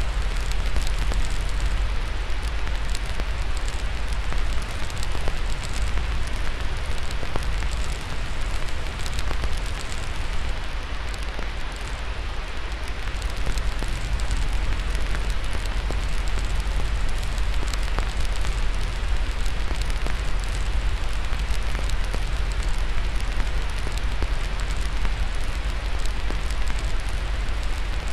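Steady white noise with a fireplace fire crackling through it: a constant hiss over a deep low rumble, sprinkled with frequent small pops and crackles.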